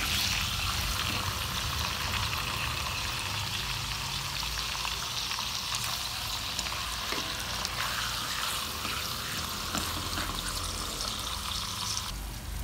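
Whole quail frying in melted butter: a steady, dense crackling sizzle that drops off sharply near the end.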